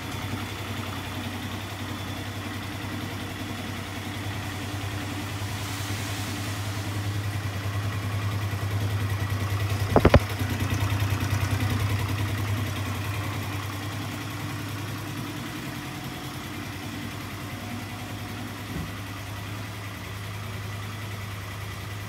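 Yamaha Majesty 125 FI scooter's fuel-injected single-cylinder engine idling steadily, getting a little louder in the middle. A single sharp knock about ten seconds in.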